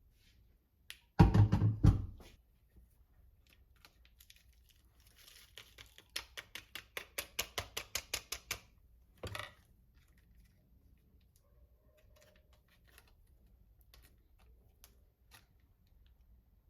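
Handling noises: a loud knock or clatter about a second in, then a quick run of about a dozen sharp, evenly spaced clicks at roughly five a second, followed by scattered faint ticks.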